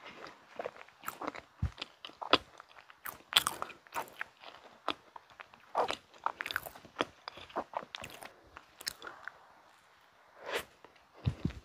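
Close-miked chewing of a mint-chocolate pastry: a dense, irregular run of sharp, wet mouth clicks and crackles. After a short pause, a fresh bite into the pastry comes near the end, with a few deeper thuds.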